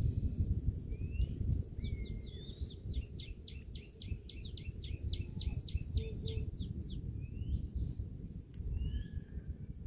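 Wild birds calling: a fast run of sharp, falling high notes, about four a second, from about two seconds in until about seven seconds in, with scattered short rising chirps around it. Under the birds runs a steady low rumble.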